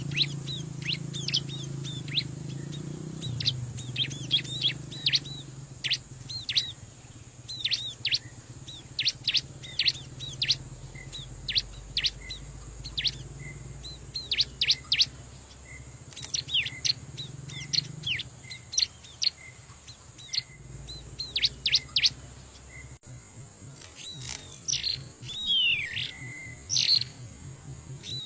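Ciblek (prinia) calling: a run of short, sharp, high chirps, often in quick clusters, over a steady low rumble.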